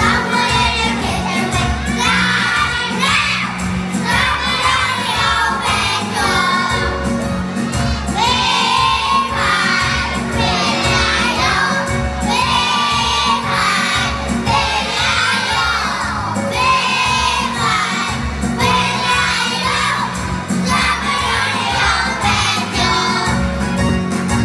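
A group of young children singing loudly together, half-shouting the words, over a backing track with a steady beat.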